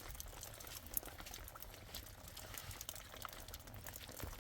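Rain pattering faintly, with many small, irregular drop ticks over a low rumble.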